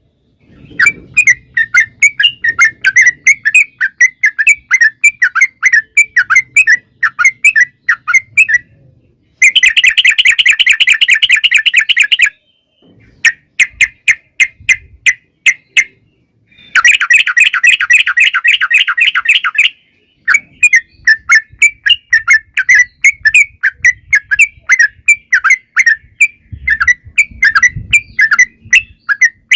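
Yellow-vented bulbul (trucuk) singing: a lively string of short chirped notes, broken twice by long, very fast rattling runs of about three seconds each, the long 'ropel' that bird keepers play as a lure to set other bulbuls singing.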